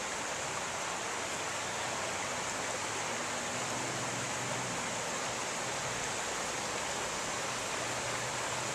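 Steady rushing of water: an even, unbroken hiss with no separate splashes.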